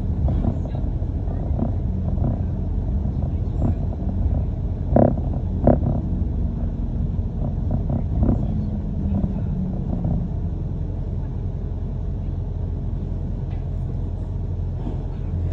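Inside a moving double-decker bus: the steady low rumble of the bus running along the road, with a few knocks and rattles from the body about five and eight seconds in.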